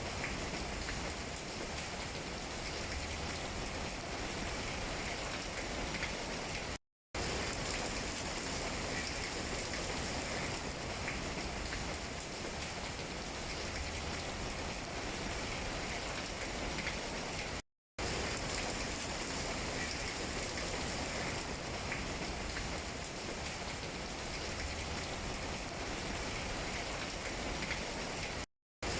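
Steady rain falling on tree leaves, a dense even hiss with scattered individual drop taps. The sound cuts out to total silence for a split second three times.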